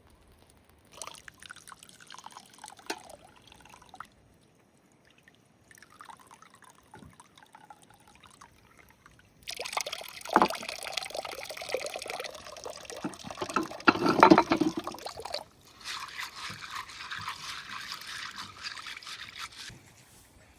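Liquid being poured and splashing, in several separate spells, the loudest a few seconds past the middle.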